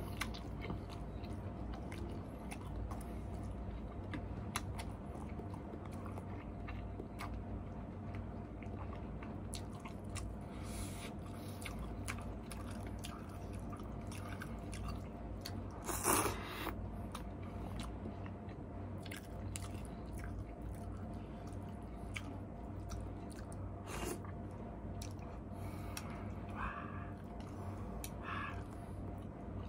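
Close-up chewing and mouth sounds of someone eating instant noodles, with small wet clicks and smacks throughout. About halfway through there is one louder, brief noisy sound, and there are two short ones near the end. A steady low hum runs underneath.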